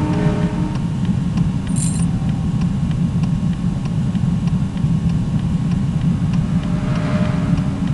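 Steady low rumble of a moving vehicle, heard from inside it, with faint regular ticks and a brief high hiss about two seconds in.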